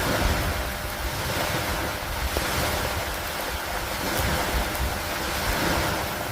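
Steady rain falling with wind, a continuous hiss that swells and eases every couple of seconds over a low rumble.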